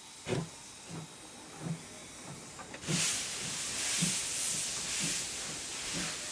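C11 tank steam locomotive pulling away, with a regular beat of low chuffs about every two-thirds of a second. A steady steam hiss starts about three seconds in.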